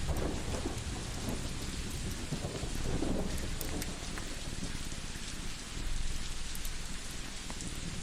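Crackling wood fire with scattered small pops over a steady hiss and a low rumble, a layered cozy-ambience mix.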